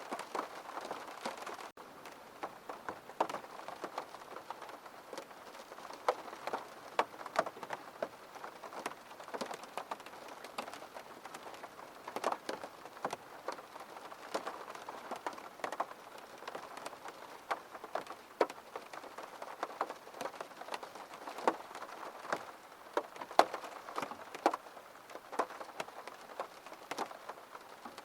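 Rain falling on a window: many irregular single drops tapping against the glass, a few louder than the rest, over a faint steady hiss of rain.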